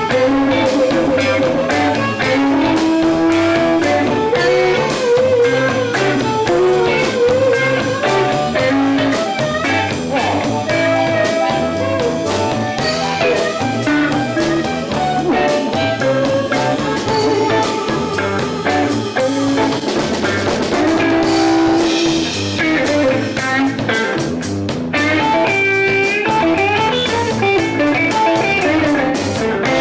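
Live instrumental blues played by a band: a harmonica-led tune over guitar and drum kit, with held notes that bend in pitch over a steady beat.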